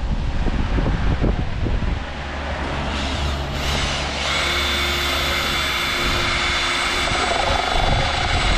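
A machine running steadily: a low hum with a high, even whine that sets in about four seconds in, after a rougher rumbling start.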